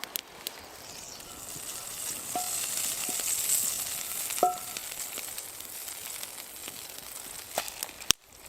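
Food sizzling in a hot pan, the sizzle growing louder about two seconds in and easing off after. A couple of short metallic clinks come midway, and there is a sharp click near the end.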